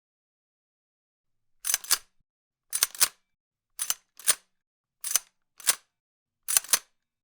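Gun sound effect: a series of sharp, crisp mechanical clicks, many of them quick doubles, roughly one a second, starting about a second and a half in.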